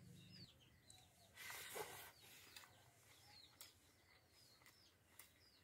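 Near silence with faint birds chirping now and then, and a brief soft rustle about a second and a half in.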